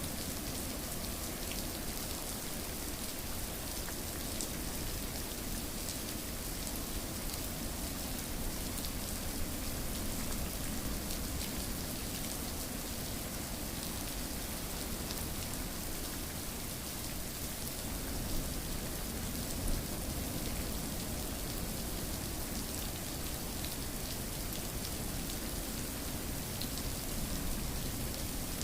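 Steady rain falling, with a constant hiss and many small drops pattering on a surface; a couple of slightly louder drops stand out about two-thirds of the way through.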